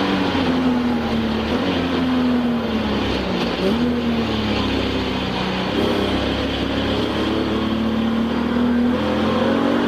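Touring-class race car's engine heard from inside the cabin at racing speed: the note falls as the car slows, drops and picks up again in a quick gear change about three and a half seconds in, holds fairly steady, then climbs near the end as the car accelerates.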